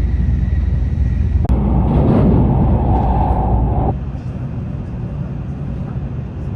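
Shinkansen N700 bullet train running at speed, heard as a steady low rumble. About one and a half seconds in, a louder rushing noise starts suddenly and cuts off just as suddenly some two and a half seconds later.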